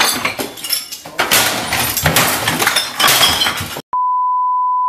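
Loud, irregular crashing and clinking of breaking glass and clattering objects for almost four seconds. It cuts off abruptly into a steady high beep, the 1 kHz tone that goes with TV colour-bar test patterns.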